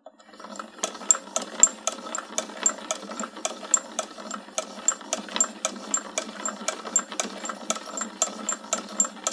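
Mechanical clicking over a steady whir, about two clicks a second, thin and without any low end.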